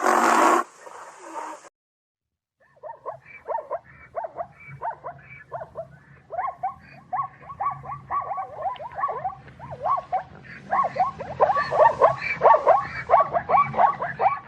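A brief loud rush of noise at the very start, then, after a short gap, a wild animal calling in a rapid run of short, falling yelps, about four a second, growing louder near the end.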